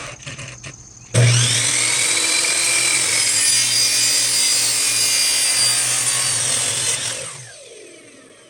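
Electric miter saw switched on about a second in and run for roughly six seconds while cutting the end off a 3-inch ABS plastic pipe elbow, with a few clicks before it starts. The saw is released near the end and its blade winds down with a falling whine.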